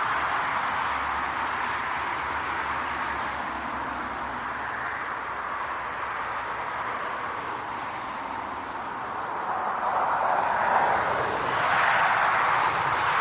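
Jet airliner engine noise at an airport, a steady rushing sound that eases off through the middle and swells again about ten seconds in.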